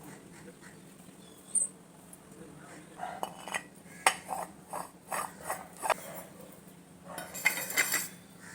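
Small lamps being handled and set down: a sharp knock, then a run of short clinks and knocks, and a busier clatter near the end.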